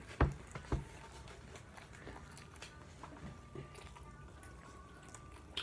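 Two short knocks in the first second, then quiet with faint clicks and chewing sounds of people eating.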